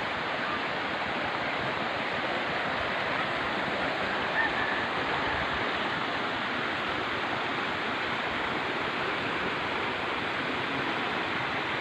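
Floodwater flowing steadily in an even, continuous rush of water noise.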